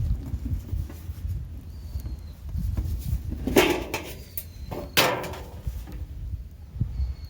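A small bird gives short, high, falling calls every couple of seconds, over a low outdoor rumble. Two loud harsh noises break in midway, about a second and a half apart.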